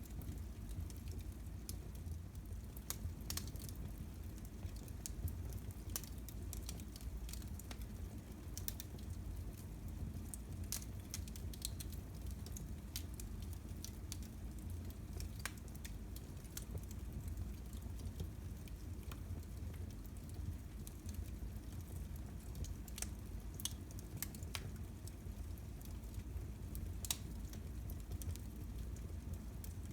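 Fire in a fireplace crackling: irregular sharp snaps and pops over a steady low rumble.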